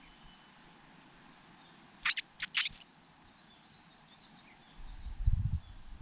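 Bird calls: a quick burst of three or four sharp chirps about two seconds in, then faint high twittering. Near the end comes a louder low rumble.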